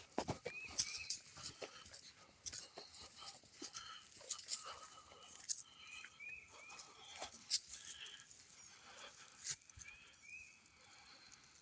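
Footsteps crunching over dry leaves and twigs on a forest trail, with irregular snaps and rustles. A bird calls in short groups of two or three quick high chirps now and then.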